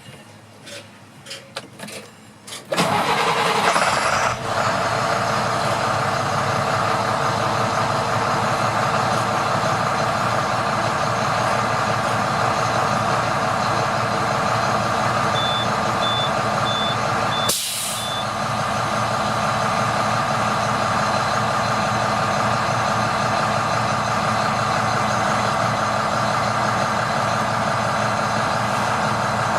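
International DT466 inline-six diesel in a 2007 International 4300 truck cranking briefly, catching about three seconds in, then idling steadily. Around the middle there are a few short high beeps and a brief hiss.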